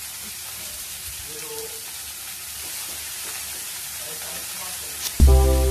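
Shredded cabbage sizzling steadily in hot oil in a steel kadhai, with some rustling as it is tossed by hand. Loud background music comes in near the end.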